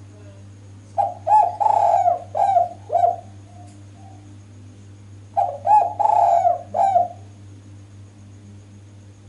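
Spotted dove (derkuku) cooing in two phrases of several rolling coos, the first about a second in and the second in the middle, over a steady low hum. The call is a female's, played to draw male doves into answering.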